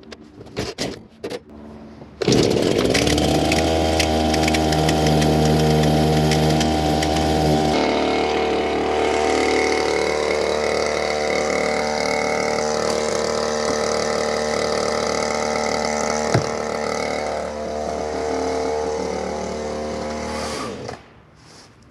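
A chainsaw engine starts suddenly about two seconds in, after a few short clicks. It runs steadily, shifts in pitch about eight seconds in, then cuts out about a second before the end.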